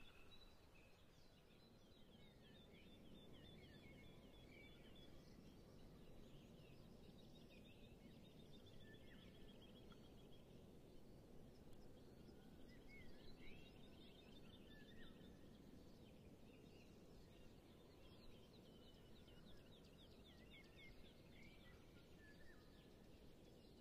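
Faint songbirds calling: rapid trills and short rising chirps repeated every few seconds over a steady low background hiss.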